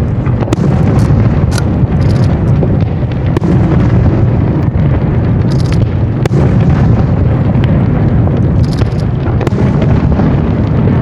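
Fireworks display: aerial shells bursting one after another in a continuous rumble of booms with sharp bangs. Several bursts of high crackling are heard through it.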